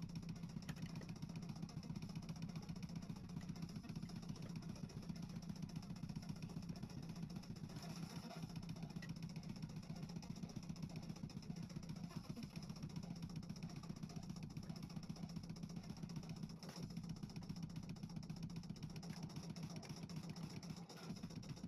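Microwave oven running with a steady low hum and a fast, even flutter.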